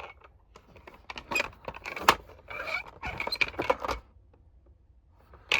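Diecast toy hauler and its plastic trailer being handled: a run of small clicks and rattles of metal and plastic parts, which stops about four seconds in.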